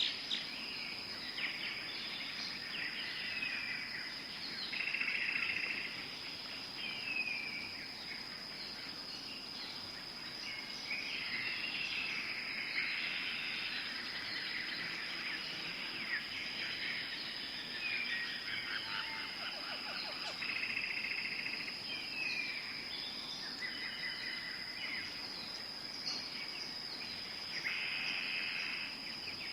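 Tropical forest ambience: a steady, high insect drone runs under many bird calls, short chattering phrases and quick downward-sliding notes repeating every second or two.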